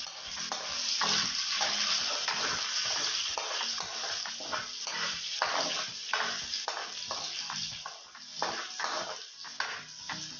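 Pork belly and garlic sizzling in hot oil in a wok, with a steady hiss. A spatula scrapes and knocks against the pan again and again as the pieces are stirred.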